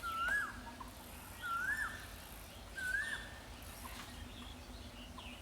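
A bird calling: three clear whistled notes, each rising and then dropping, spaced about a second and a half apart, with fainter chirps of other birds behind.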